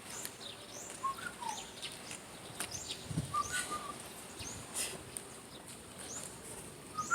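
Small birds chirping: scattered short chirps and quick falling whistles over a faint steady background hiss.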